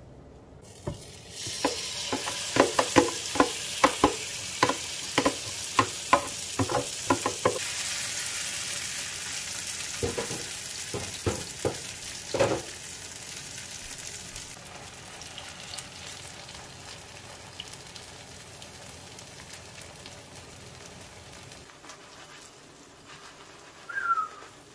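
Mung-bean pancake batter sizzling in hot oil in a nonstick frying pan, the sizzle starting about half a second in as the batter goes into the pan. A quick series of sharp taps and knocks comes over the first several seconds and a few more in the middle, as the batter is spread and pressed in the pan; the sizzling thins out near the end.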